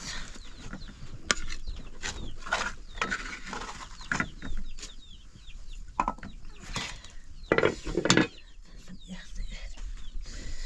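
Chickens clucking and chirping, with a few sharp knocks in between.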